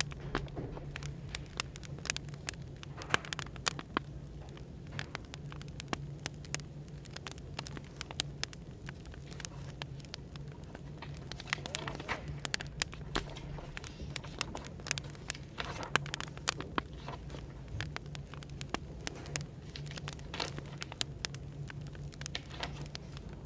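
Wood fire crackling with irregular sharp pops, over a steady low hum of café background noise.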